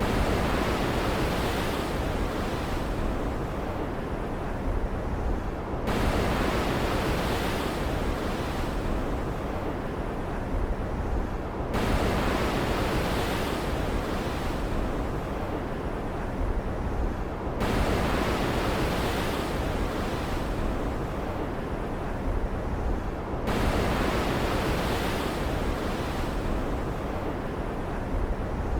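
Stormy ocean ambience: a dense rush of surf and wind that surges about every six seconds, each surge starting abruptly and then fading, with a steady low rumble underneath.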